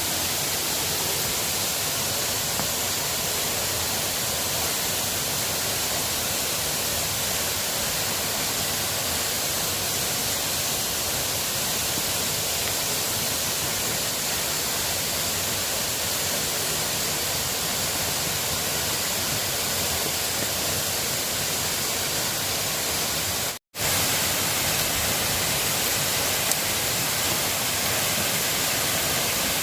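Steady rain falling, an even hiss with no let-up, broken once by a momentary silent cut near the end.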